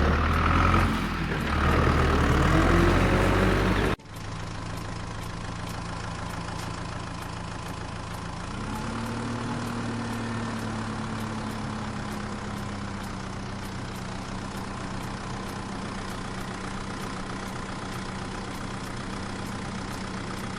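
Mini tractor's engine idling with a steady hum. For the first four seconds the engine noise is louder and rougher, then it cuts off abruptly and settles into a steadier, quieter idle. About eight seconds in the pitch rises slightly, then slowly eases back down.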